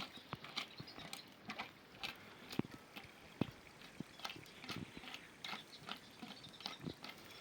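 Irregular light clicks and taps, a few sharper than the rest, over a faint hiss.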